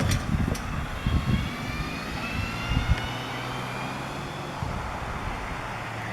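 Diesel locomotive engines of a freight train running with a low, steady hum, with a few gusts of wind on the microphone in the first second.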